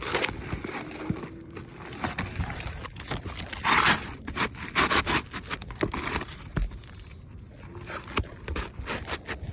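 Brittle, aged asphalt shingles scraping and crackling as they are worked loose and lifted, with scattered clicks and louder scrapes about four, five and six seconds in. The crackle is the sign of shingles so brittle they tear and break when lifted.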